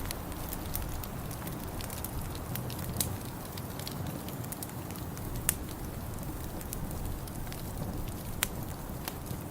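Wood fire crackling in a fireplace: a steady low rumble with scattered small crackles and a few sharp pops, about three seconds in, at five and a half seconds and near the end.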